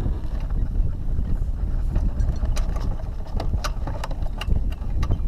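Strong wind buffeting the microphone as a steady low rumble, with scattered sharp clicks and ticks from about two seconds in.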